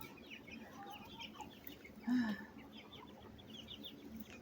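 Chickens foraging and making many soft, short chirping calls, with one louder brief low call about two seconds in.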